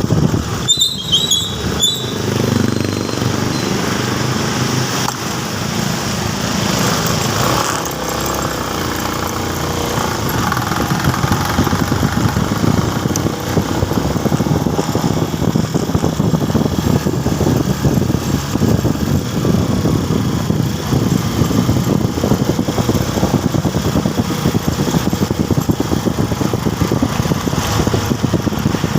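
Motorcycle engine running steadily while riding, under a continuous rush of road and wind noise. A few brief high chirps come about a second in.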